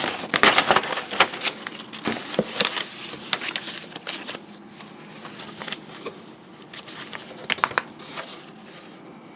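Paper and cardboard packaging rustling and crinkling as items are handled and pulled from a box, in irregular scrapes and clicks that are busiest in the first couple of seconds, with another flurry a little past seven seconds.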